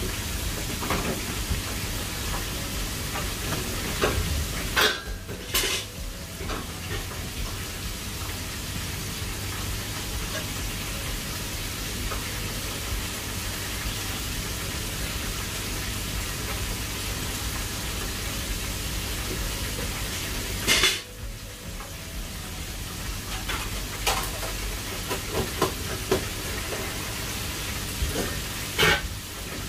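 Food sizzling in hot oil, with a metal ladle stirring and scraping in a pot. A few sharp clinks and clatters of cookware stand out.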